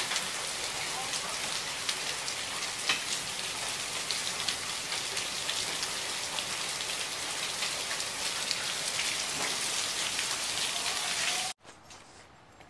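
Heavy rain mixed with hail pelting down: a dense steady hiss dotted with sharp ticks of hailstones striking. It cuts off suddenly near the end, leaving only a faint hiss.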